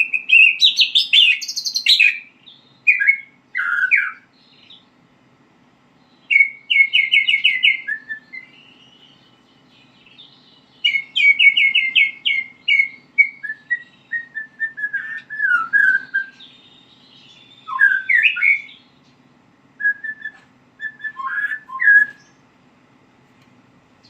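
White-rumped shama (murai batu) practising its song: varied phrases of quick repeated-note rattles, clear whistles and downward slurs, broken by pauses of a second or two.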